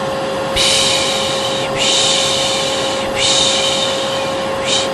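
Hair dryer blowing with a steady whoosh and motor hum, overlaid with repeated long 'shhh' shushing swells about every second, used as white noise to calm a colicky baby.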